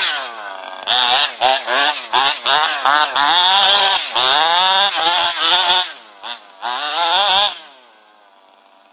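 Tuned 23cc two-stroke engine of a petrol RC car revving in quick repeated throttle bursts, its pitch climbing and falling with each burst. About seven and a half seconds in the sound falls away to a faint level.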